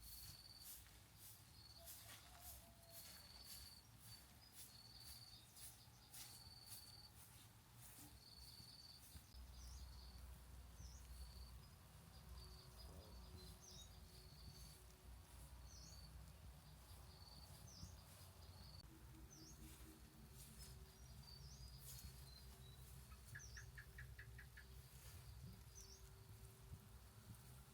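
Faint rural ambience: a short high chirp repeats about every second and a half, over scattered faint clicks and crackles and a low hum.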